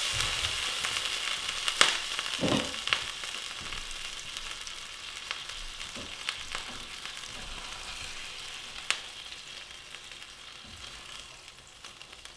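Chicken frying in oil in a skillet, a steady sizzle that slowly dies down as the pieces are lifted out. A few sharp clicks and knocks of metal tongs against the pan.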